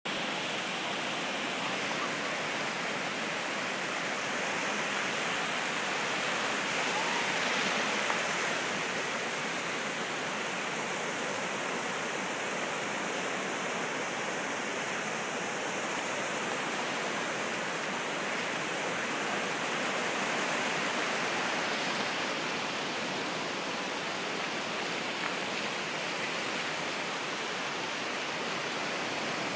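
Ocean surf breaking and washing up the shore, a steady rushing that swells twice as waves come in.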